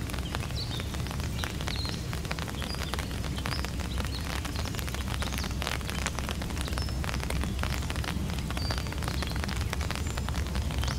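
Distant approaching train: a steady low rumble that swells slightly near the end, under a dense crackle of small clicks and a few short high bird chirps.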